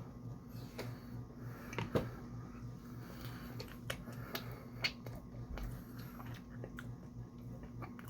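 Close-miked eating sounds: chewing with scattered wet mouth clicks and lip smacks, the sharpest about two seconds in and again near the five-second mark, over a steady low electrical hum.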